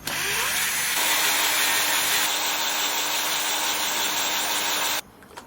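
Electric power tool in a metalworking job: its motor spins up with a quick rising whine, then runs steadily with a hissing cutting noise, and stops abruptly about five seconds in.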